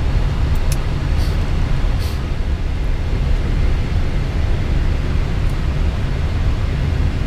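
Steady low rumble of an Airbus A320 cockpit while the airliner taxis, engines at idle, with a few faint ticks in the first two seconds.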